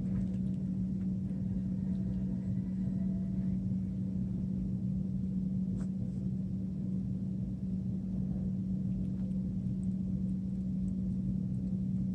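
A steady low hum at one pitch over a low rumble, with a faint click about six seconds in.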